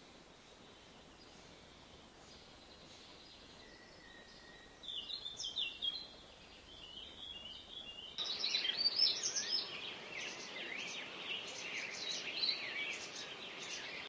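Birds chirping: faint at first with a short burst of high chirps about five seconds in, then after an abrupt change about eight seconds in, a louder dense chorus of many quick high chirps.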